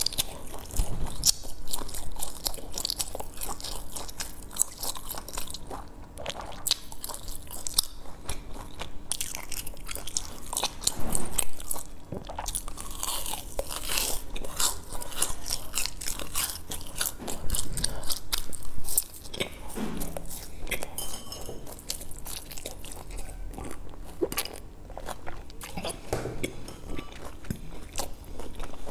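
Close-miked crunching and chewing of crisp snacks, a fried sesame ball and a puffed-rice candy bar: a dense, irregular crackle with sharper crunches at each bite.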